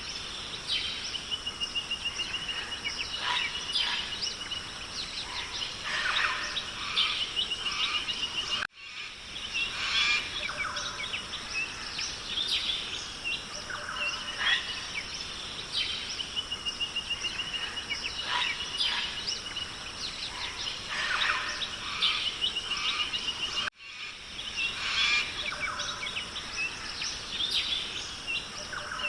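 Rainforest ambience: many birds chirping and calling, including a repeated rapid trill, over a steady high insect buzz. The recording is a loop of about fifteen seconds, cutting out for a split second at each seam, once about a third of the way in and again near the end.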